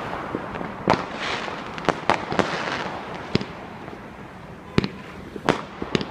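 Fireworks bursting: about seven sharp bangs at irregular intervals, with a crackling hiss between them during the first three seconds.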